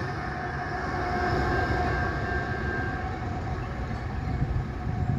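Freight train of tank cars rolling past with a steady rumble, a faint steady whine running over it.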